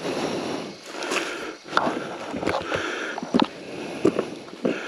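Rustling with a few sharp knocks and clicks as gear is handled.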